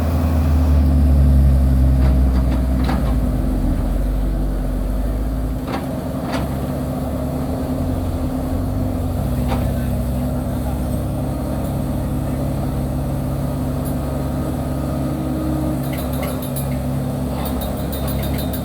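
Heavy diesel engine of earth-moving machinery running steadily, its low rumble loudest for the first five or six seconds and then settling to a steady run. There are a few sharp knocks along the way.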